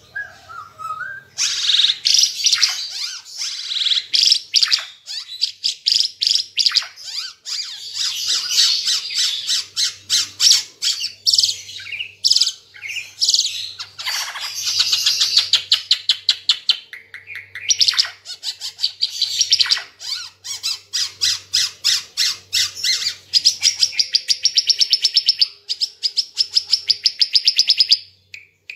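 Ara Timor songbird singing a long, loud, chattering song of rapid trills of sharp notes, almost unbroken, with a few short pauses.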